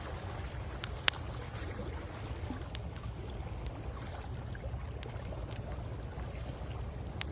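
Wood campfire crackling, with scattered sharp pops and one louder pop about a second in, over a steady low rumble of surf and wind.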